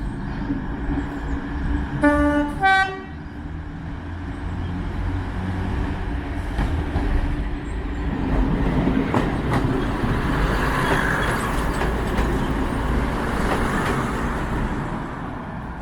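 Diesel locomotive engine running with a steady low rumble, sounding two short horn blasts on two different notes about two seconds in. From about halfway through, the train's running noise swells and stays up.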